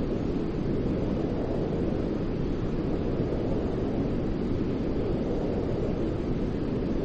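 Steady, deep white noise for sleep, an even hiss weighted toward the low end with slow gentle swells in level.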